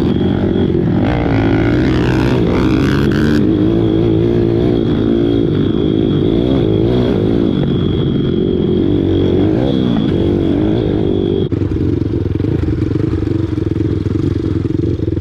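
Single-cylinder four-stroke pit bike engine running under riding, its revs rising and falling as the throttle is worked. A thin high whine over it stops abruptly about eleven seconds in.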